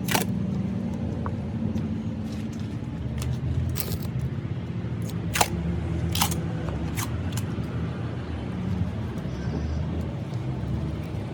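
An engine running steadily with a low rumble, with a few sharp knocks or clanks over it, the loudest about halfway through.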